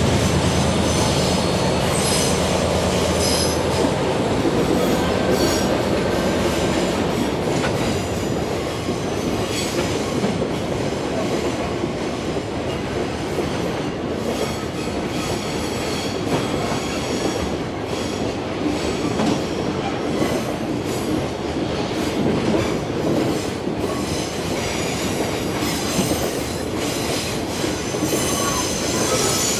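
Freight container train rolling past, its wheels squealing and clicking over the rail joints. A steady low engine note from the hauling DE10 diesel-hydraulic locomotive sounds for the first few seconds, then fades under the rolling noise of the wagons.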